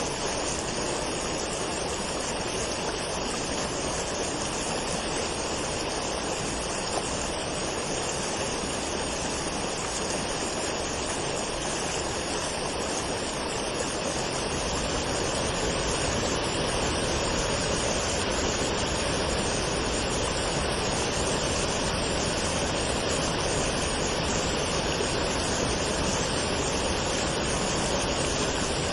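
Waterfall: water pouring and splashing in a steady rush, a little louder about halfway through.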